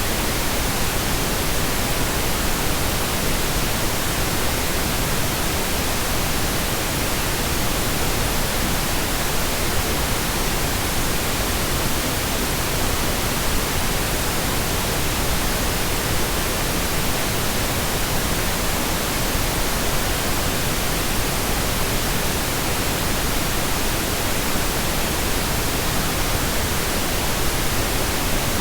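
Steady, continuous pink noise: an even hiss across all pitches, unchanging throughout.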